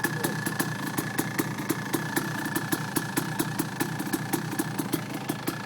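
Small off-road engine idling steadily, with a sharp regular ticking about six times a second over its hum and a thin steady whine.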